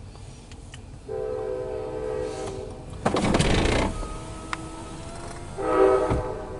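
MARC commuter train's horn sounding a chord of several steady notes in blasts as the train approaches. The first blast comes about a second in. A loud rushing noise follows around three seconds, and another louder blast comes near the end.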